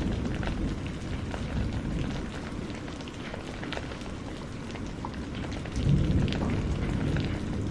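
Steady rain with individual drops pattering, over a low rumble of thunder that eases off early and swells again about six seconds in.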